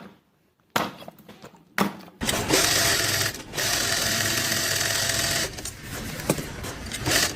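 A few sharp knocks, then a small motorised machine runs with a loud, steady buzz for about three seconds, dropping out briefly partway, and gives way to quieter noise with scattered clicks.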